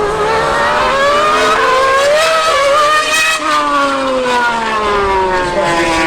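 High-revving racing engine running hard, its pitch rising for about three seconds and then falling away, with a second engine note joining about halfway through.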